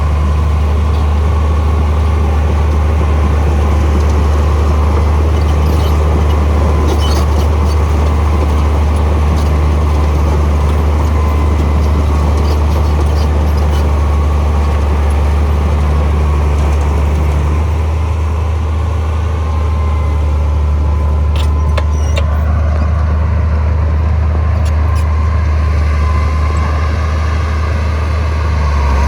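Heavy diesel engine of earthmoving machinery running steadily with a deep drone, easing off slightly about two-thirds of the way through. A few brief sharp clanks sound over it, once partway through and again a little later.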